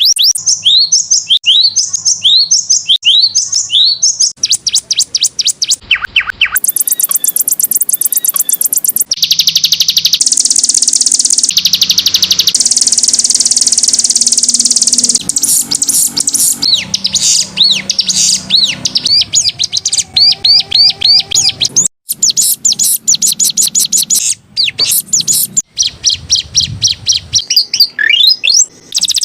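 Canary singing a long, loud song of rapid repeated trills and rising whistled sweeps, switching abruptly from one trill pattern to the next.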